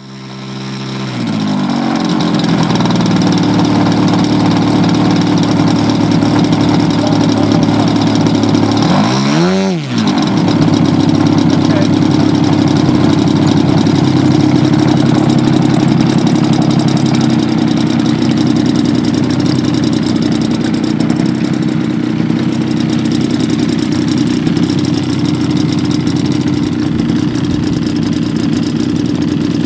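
Giant-scale RC airplane's engine running at high throttle. Its pitch climbs over the first couple of seconds, then holds steady. About nine and a half seconds in, it briefly drops sharply and comes straight back up, as the throttle is cut and reopened.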